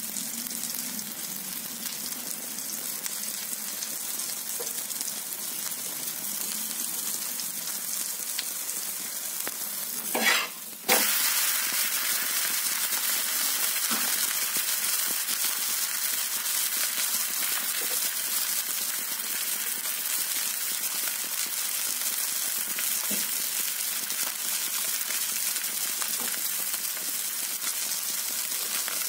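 Rice and chana dal batter pancake frying in oil on an iron tawa, a steady sizzle. About ten seconds in come a couple of knocks and a brief break, and after that the sizzle is louder, with the pancake turned over.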